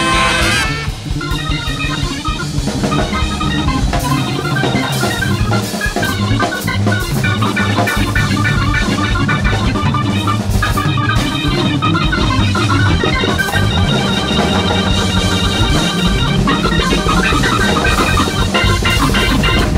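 Live band music: an organ-toned keyboard plays fast runs over drums and a repeating bass line. A held horn chord cuts off just under a second in.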